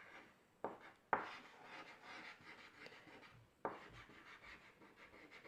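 Scrubbing on a tabletop: three rubbing strokes that each start sharply and fade out, two close together about a second in and one more near the middle.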